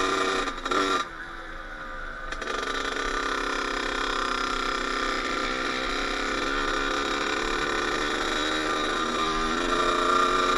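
Kawasaki KX80 two-stroke single-cylinder engine running under a rider. It is at high revs at first, drops off sharply about a second in, then builds back up and climbs again near the end.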